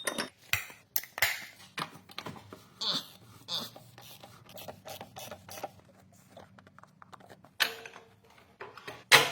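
Irregular clicks, clinks and scrapes of hand tools and metal parts being handled, with a few sharper knocks near the start and end.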